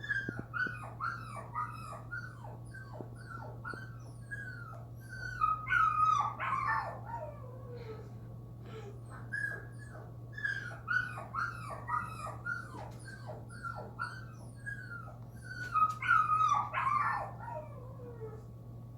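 A dog whimpering and yipping: a quick run of short, high, falling whines, two or three a second, with a louder, longer falling whine about six seconds in and again near sixteen seconds.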